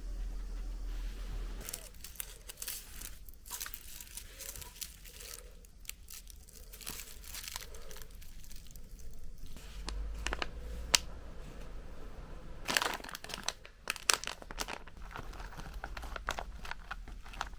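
Plastic or paper packaging being crinkled and handled, with irregular crackles that grow denser near the end, over a low hum at the start.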